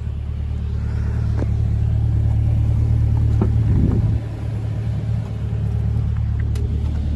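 Chevrolet Corvette C8's 6.2-litre V8 engine running with a deep, steady rumble that builds gradually. It drops suddenly about four seconds in, then holds steady.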